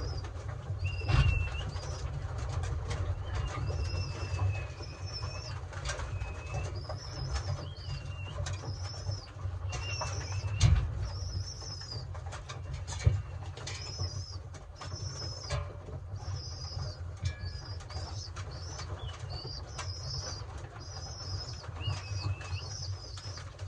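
Racing pigeons in a loft, with cooing and wing flapping. Short high chirps repeat throughout over a steady low rumble, and a few sharp knocks stand out, the loudest about 11 seconds in.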